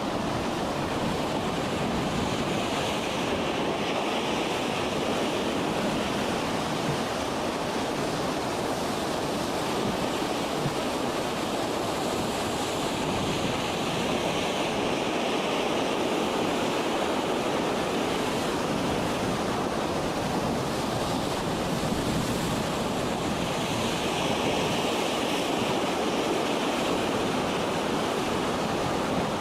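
Wind and heavy sea in a storm: a steady, dense rush of noise without distinct wave strikes.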